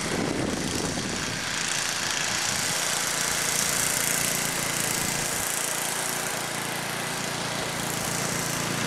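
1973 Ariens snow blower's small engine running steadily.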